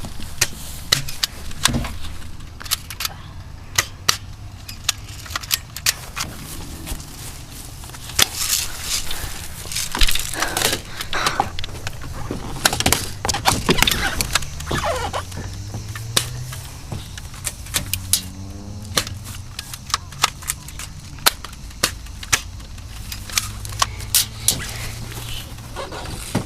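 Airsoft guns firing scattered single shots, heard as sharp snaps and clicks at irregular intervals, with stretches of rustling and crackling in the middle.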